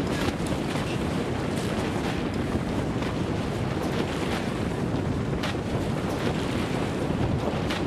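Wind buffeting the microphone over the steady rush of sea water along the hull of a schooner under sail.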